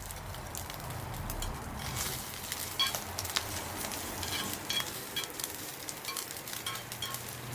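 Food sizzling over a wood campfire, with frequent sharp crackles and pops from the burning wood.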